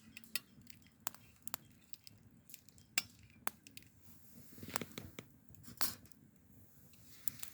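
Irregular light clinks and knocks of tableware being handled, with several sharper clicks spaced a second or so apart.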